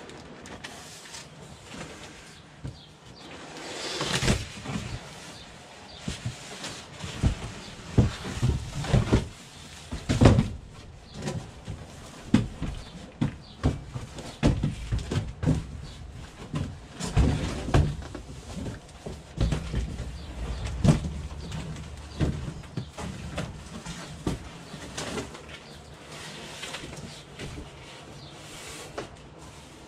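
Irregular knocks, thumps and scrapes of a large fridge-freezer being unpacked from its box and packaging, busiest through the middle stretch.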